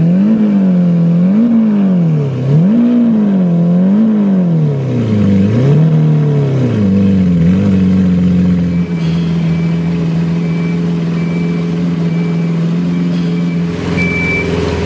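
Lamborghini Veneno's 6.5-litre V12 blipped through about five quick throttle revs, then settling into a steady idle. A high, repeating electronic beep sounds over the idle from about halfway through, louder near the end.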